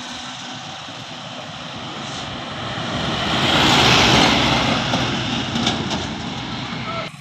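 Road vehicle passing close by, its engine and tyre noise swelling to a peak about four seconds in and then fading. The sound cuts off suddenly near the end.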